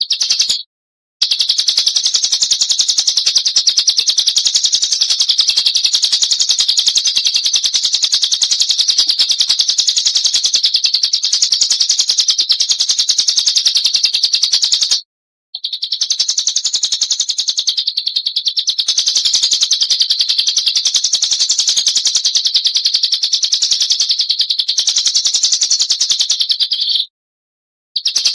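Oriental magpie-robin (kacer) giving a fast, unbroken high trill, held for many seconds at a time with brief breaks about a second in, mid-way and near the end.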